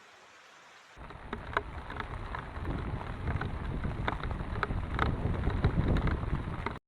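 Heavy rain with many individual drops striking close by, over a deep low rumble. It starts abruptly about a second in and cuts off just before the end.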